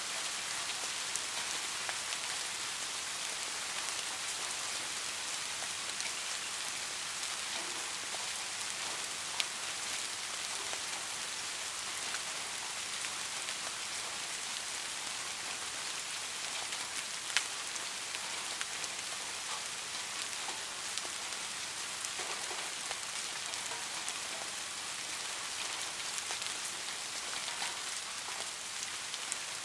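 Steady rainfall: an even, high hiss of falling drops, dotted with sharper ticks of single drops striking, a couple of them standing out louder.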